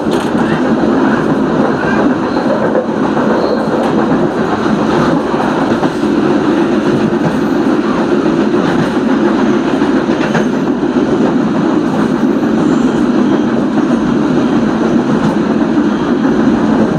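Train running along the rails, heard from inside its rear end: steady wheel-on-rail and carriage noise with no change in speed.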